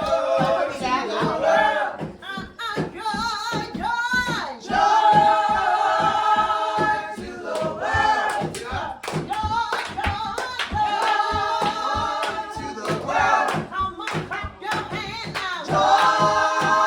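Christmas music: several voices singing together like a choir, holding long notes over a steady beat.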